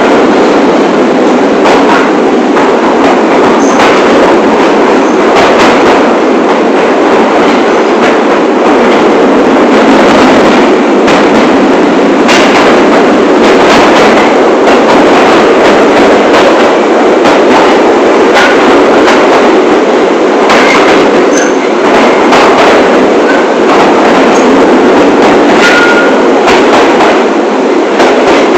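New York City subway train on the 1 line running along the track: a steady loud rumble of wheels on rail, with scattered clicks and a few short high squeaks.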